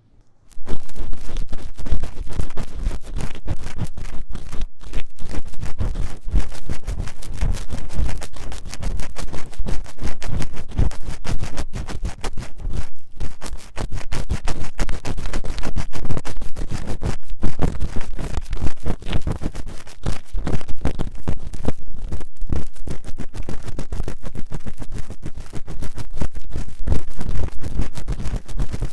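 Ear-cleaning tools scratching quickly and vigorously inside the ear of a 3Dio binaural microphone: a dense, unbroken run of rapid strokes with a deep close-up rumble. It starts suddenly about half a second in.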